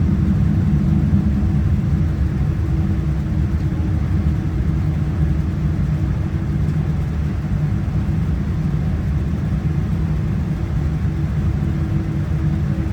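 Cabin noise aboard a Boeing 787-9 airliner: a steady low rumble with a faint steady hum, without change.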